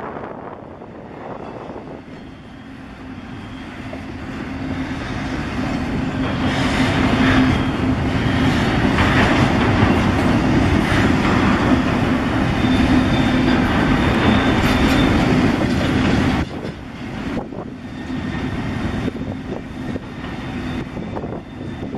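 Double-stack intermodal container cars of a freight train rolling past, their wheels running over the rails with a steady hum. It swells over the first several seconds, stays loud, then drops suddenly about two-thirds of the way through and carries on more quietly.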